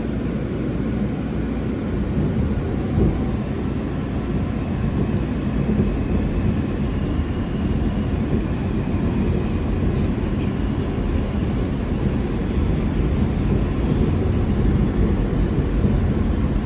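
New York City subway F train running, a steady rumble of wheels on track heard inside the car, with a faint high whine in the middle stretch.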